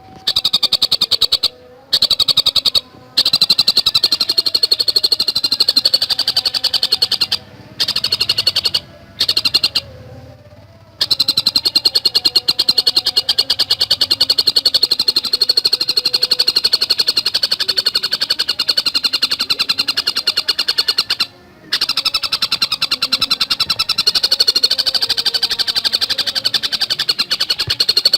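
Tengkek buto kingfisher calling in a fast, tightly packed chatter of rapidly repeated high notes, broken by a few short pauses.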